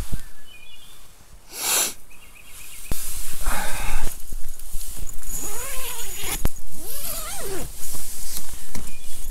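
Tent fabric and bedding rustling as a person moves inside a tent, with a short rushing breath-like noise early and two drawn-out wordless vocal sounds near the middle that rise and fall in pitch, like waking groans.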